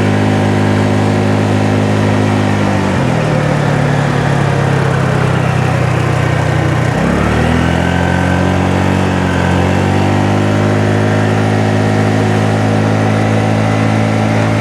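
Honda Navi's small air-cooled single-cylinder engine running while riding, over a steady rush of noise. Its note drops about three seconds in, dips sharply again about seven seconds in, then climbs back as the bike speeds up.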